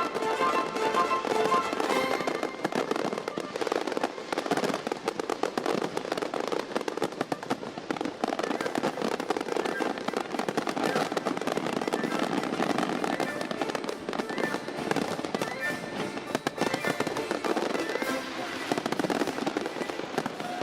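Fireworks crackling and popping in a dense, continuous barrage, with music underneath that is clearest in the first couple of seconds.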